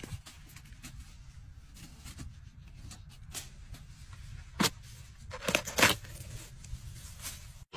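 Knife cutting into a ripe watermelon's rind, with a few sharp clicks, then a loud crack about halfway through and a burst of crunching, tearing sounds as the melon splits open.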